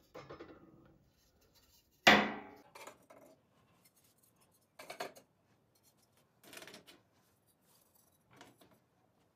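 Ceramic decorative logs being set in place around a bioethanol burner, knocking and clinking against hard surfaces. The loudest is a sharp clink about two seconds in with a short ring after it, followed by a few lighter, spaced-out knocks.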